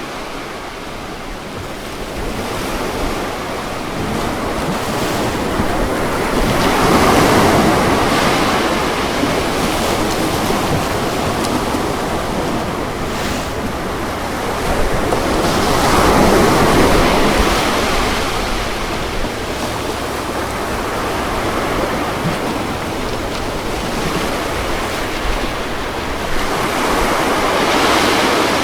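Ocean waves breaking and washing on a shore: a steady rush of surf that swells louder three times, about every nine seconds.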